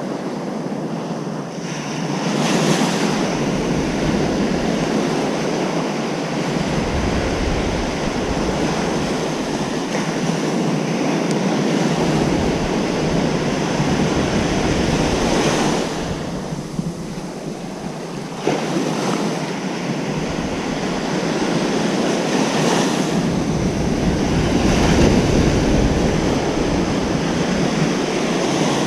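Ocean surf breaking and washing up a beach, a continuous rushing wash that swells and ebbs with each wave, dipping to a lull about two-thirds of the way through before the next wave comes in.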